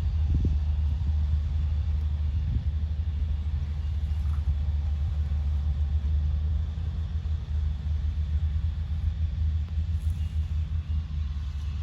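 John Deere sugarcane harvester's diesel engine running, heard as a loud, steady low rumble.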